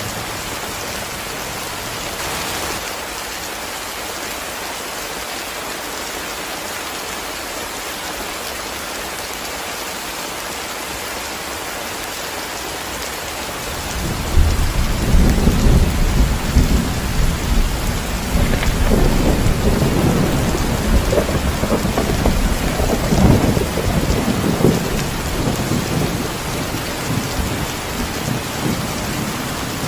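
Heavy rain falling steadily. About halfway through, deep rolling thunder sets in and rumbles on for about ten seconds before easing off near the end.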